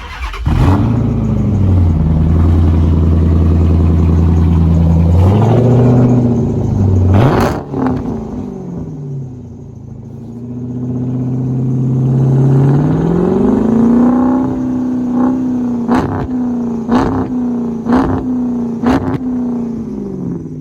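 Car V8 engine revving through an exhaust with its resonators cut off: several revs, twice held up for a few seconds, the second hold near the end broken by sharp cracks about once a second before it falls back to idle.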